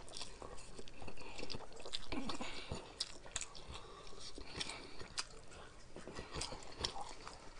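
A person chewing a mouthful of spicy noodles, with scattered small wet mouth clicks.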